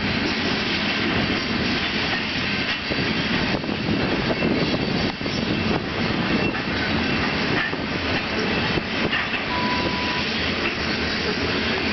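Railroad cars rolling past at close range: a steady loud rumble of wheels on the rails, with irregular sharp clicks as the wheels cross rail joints.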